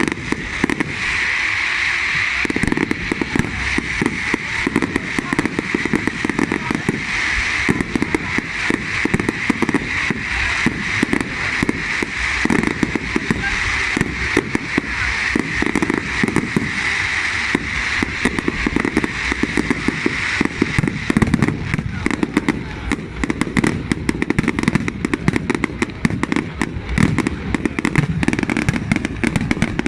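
Fireworks display: a dense, continuous run of bangs and crackles with no break.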